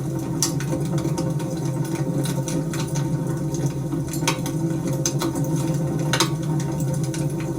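Wood fire burning in a fireplace: a steady low rush of flames with irregular sharp crackles and pops, the loudest pop about six seconds in.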